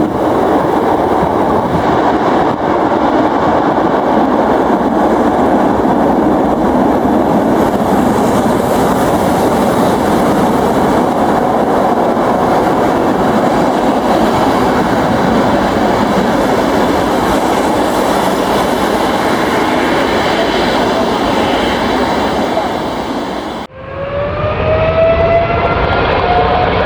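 Jet engine noise from a landing Boeing 747-400 freighter: a loud, steady rush with a thin high whine. About 24 seconds in it cuts abruptly to a Boeing 777-300ER's GE90 engines spooling up for takeoff, several whines rising in pitch.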